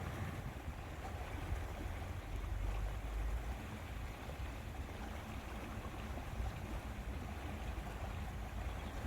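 Steady lakeside ambience: wind rumbling on the microphone over the wash of lake water.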